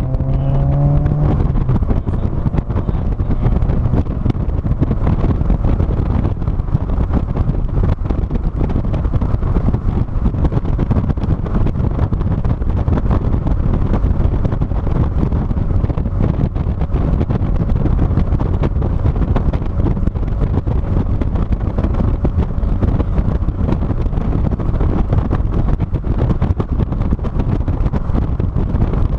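Wind buffeting the microphone of a camera mounted on the trunk of a moving car: a steady, loud low rumble of wind noise.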